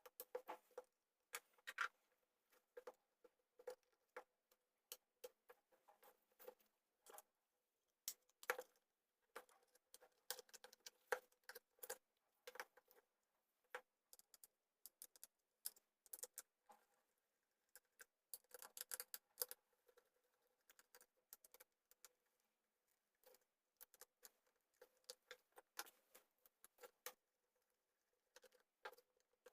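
Faint, scattered small clicks and taps of a Bluetooth speaker's plastic casing being handled and opened up by hand, with a faint steady hum underneath.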